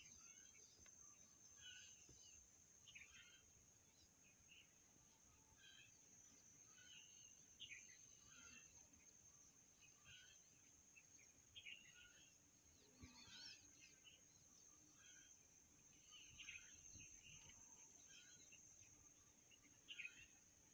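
Faint, scattered short chirps of small birds over a steady high-pitched whine.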